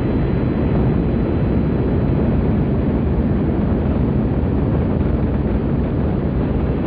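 Rocket engines at liftoff, a loud, steady, deep rumble of noise just after the countdown reaches zero.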